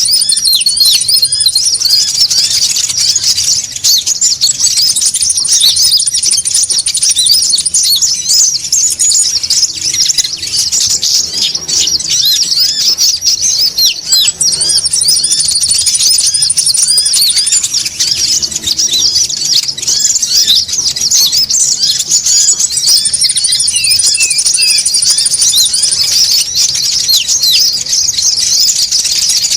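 A noisy flock of konin birds chattering, with dense, rapid high chirps throughout. A thin, high trill of about two to three seconds recurs roughly every ten seconds.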